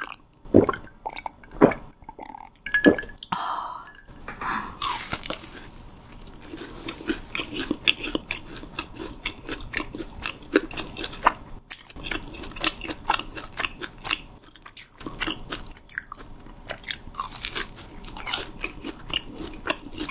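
Close-miked eating: steady chewing and biting with many crisp crunches of fried snack food.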